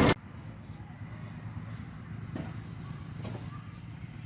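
A loud heavy-vehicle engine clatter cuts off abruptly right at the start, leaving a faint, steady low engine hum with two light knocks in the middle.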